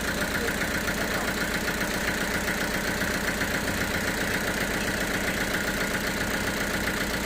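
Sawmill machinery running steadily, a constant engine-like drone with a fast even pulse.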